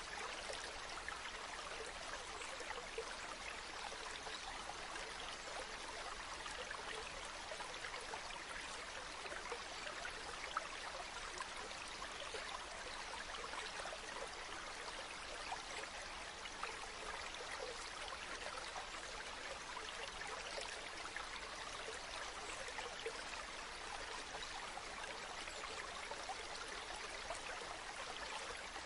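A river running steadily over stones, an even rushing and babbling of water with small splashes throughout.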